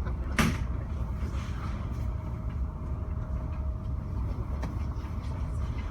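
Steady low rumble aboard a car ferry crossing in a wind storm, with one loud sharp hit about half a second in.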